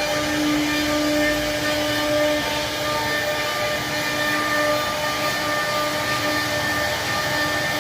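An electric machine motor running steadily: a constant rushing noise with a high whine that swells and eases a little now and then.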